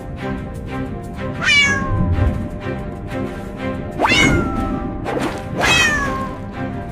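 Background cartoon music with three loud calls that glide steeply down in pitch, spaced a couple of seconds apart.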